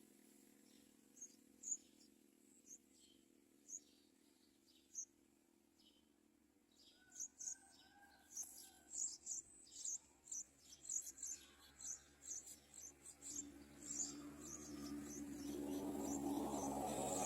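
Yellow-vented bulbul chick giving short, high, thin begging calls: a few scattered ones at first, then several a second from about seven seconds in. A low rushing noise rises near the end.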